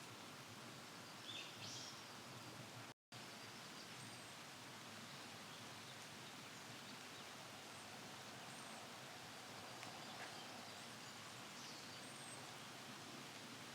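Faint, short, high-pitched bird calls, a handful scattered over a steady background hiss. The sound cuts out completely for an instant about three seconds in.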